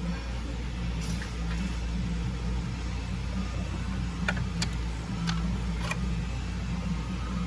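A steady low mechanical hum, with a few short sharp clicks about halfway through.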